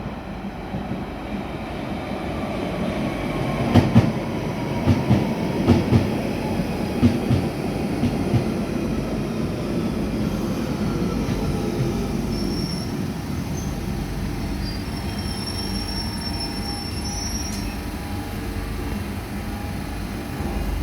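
London Underground 1992 Stock electric train on the rails: a steady rumble, with a string of sharp wheel clacks about four to eight seconds in and a whine that falls in pitch. A thin high wheel squeal comes and goes in the second half.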